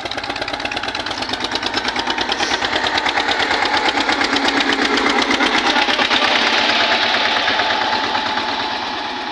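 Eicher tractor's diesel engine running with a rapid, even putter of firing strokes. It grows louder to a peak about halfway through, then eases off.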